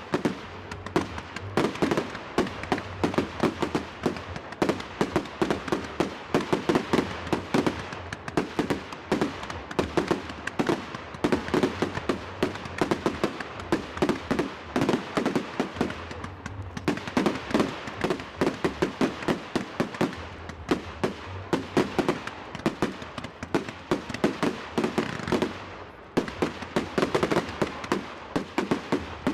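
Fireworks going off in a rapid, continuous barrage of bangs and crackles, many a second, easing briefly twice before picking up again.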